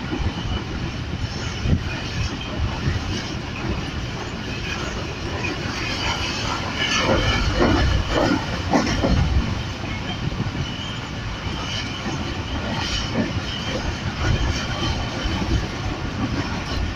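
Passenger train running along the track, heard from on board: a steady rumble and rattle of the wheels on the rails, louder for a few seconds near the middle.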